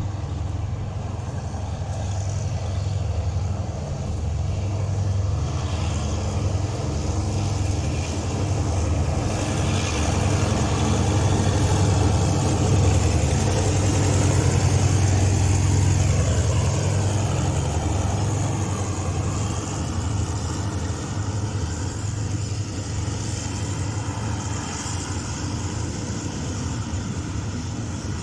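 A diesel-hauled freight train passing. The deep engine rumble and the rolling noise swell to a peak about halfway through, then ease off.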